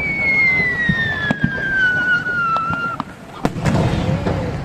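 Fireworks display: a whistling shell gives one long whistle that falls steadily in pitch and cuts off about three seconds in, over scattered sharp bangs from bursting shells.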